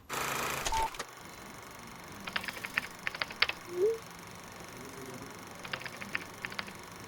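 Computer keyboard typing in two short bursts of keystrokes, after about a second of loud noise at the start.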